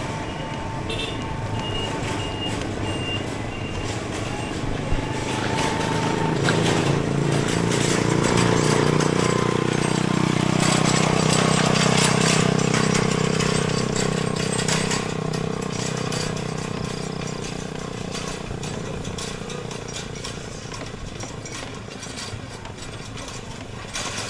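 A motor vehicle's engine grows louder, passes with a drop in pitch about ten seconds in, and fades away over steady road noise. A faint intermittent beeping sounds in the first few seconds.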